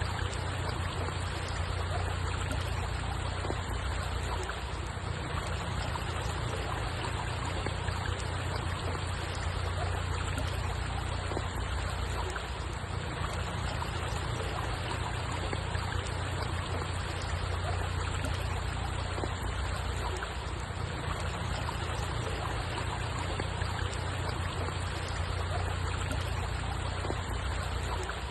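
Steady trickling, flowing water with a deep low rumble underneath, unchanging throughout.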